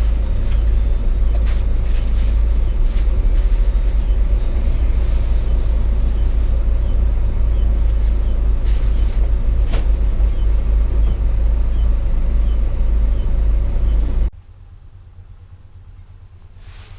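Cab noise of a Hino 500 FM 260 JD truck on the move: its diesel engine runs in a steady low drone, with a few light clicks. About 14 seconds in the sound drops suddenly to a much quieter background.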